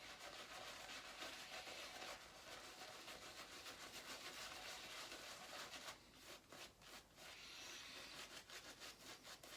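Boar-bristle shaving brush working soap lather, a faint steady rubbing swish with a run of quicker, sharper strokes about six seconds in.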